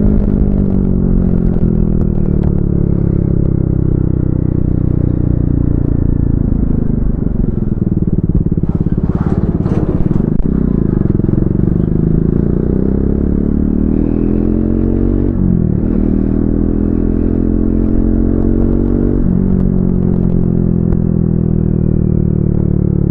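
Triumph Speed 400's single-cylinder engine under way. The revs fall steadily for the first several seconds as the bike slows, then rise again as it accelerates, with two upshifts marked by sudden drops in pitch about 16 and 19 seconds in.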